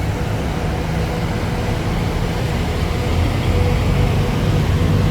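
Large diesel bus engine idling: a steady low rumble with a faint steady whine above it.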